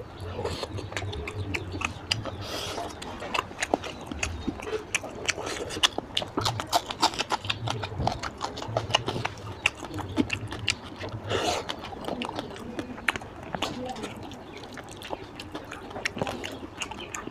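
Close-miked wet chewing and lip-smacking of someone eating rice and oily mutton fat curry by hand, with many quick sticky mouth clicks.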